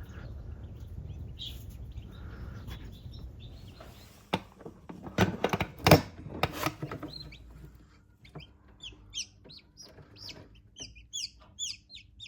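Chickens: a few loud, sharp clucks between about four and seven seconds in, then short, high, downward-sliding peeps from baby chicks, coming faster toward the end.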